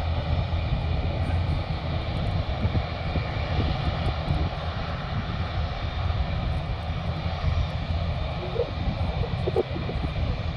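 Jet aircraft engines running steadily: a continuous deep rumble with several faint steady tones above it.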